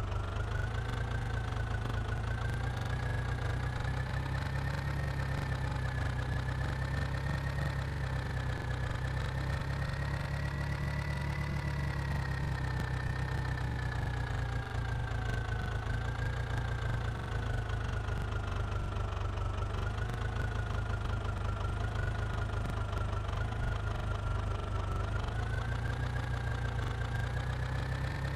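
Kubota MU4501 tractor's four-cylinder diesel engine idling steadily, with a thin high whine that slowly drifts up and down in pitch over the low engine drone.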